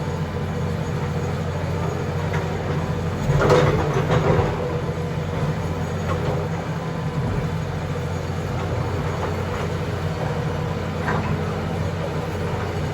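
John Deere backhoe's diesel engine running steadily, with a brief louder burst of clatter about three and a half seconds in.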